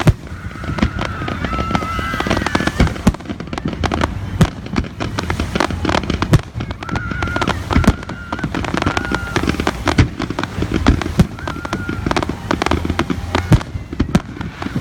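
Fireworks display: many bangs and crackles in quick, irregular succession over a low rumble.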